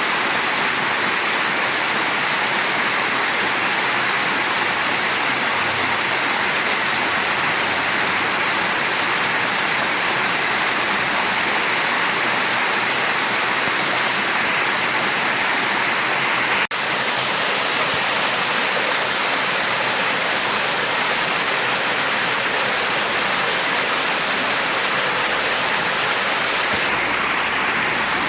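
Mountain stream flowing steadily: a dense, even rush of water. There is a momentary break in the sound about two-thirds of the way through.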